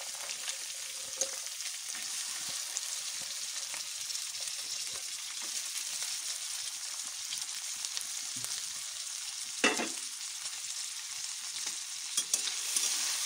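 Chopped vegetables (capsicum, green peas, carrot and beans) sizzling steadily in hot oil in a metal kadai, with one sharp knock about ten seconds in and a couple of clicks near the end.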